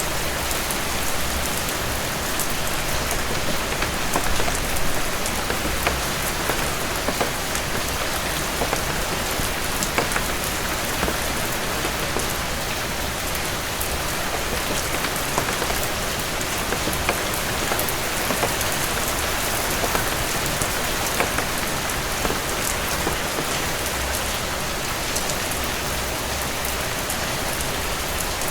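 Heavy rain falling steadily on a cabin porch, a dense even hiss scattered with many small sharp drop ticks.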